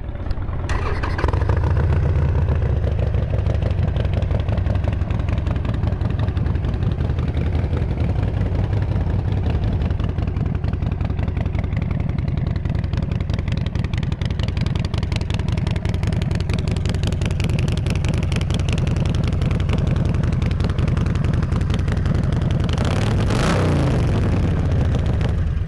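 Harley-Davidson Sportster 1200's fuel-injected V-twin, fitted with a heavy breather intake and aftermarket chrome pipes, starting up and idling loud and steady. It is blipped once near the end, then cuts off suddenly.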